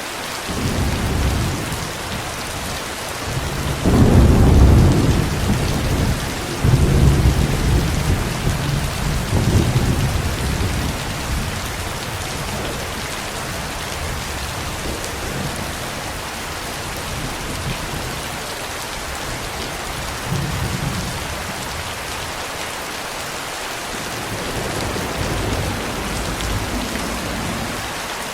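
Steady rain falling, with thunder: a rumble builds about a second in and swells into two loud peals a few seconds later that roll on for several seconds, then fainter rumbles return twice near the end.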